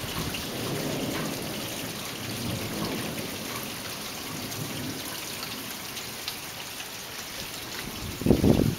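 Steady rain falling. Near the end there is a brief, louder low sound.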